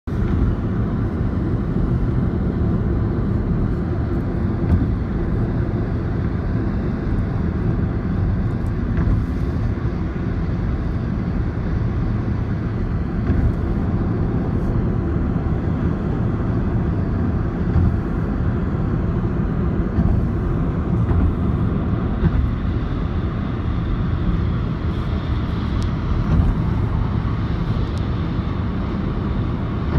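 Airplane engine noise: a steady, even drone, heaviest in the low end, that holds without rising or falling.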